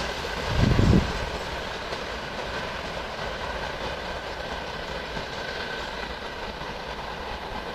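Work train behind a ChME3 diesel shunting locomotive rolling away along the track, its wheels clattering over the rail joints and slowly fading. A brief low rumble about half a second in is the loudest moment.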